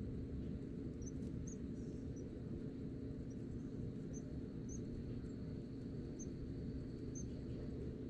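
Faint, short, high-pitched bird chirps, irregularly spaced about one a second, over a steady low background rumble. A faint thin steady whine comes in about halfway through.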